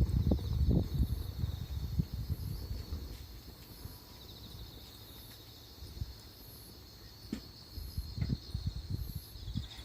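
Wood fire burning in a Solo Stove Campfire fire pit, with a few sharp crackles and low gusty rumbling that eases off mid-way and picks up again near the end. Insects trill steadily in the background, with a high chirp repeating about once a second.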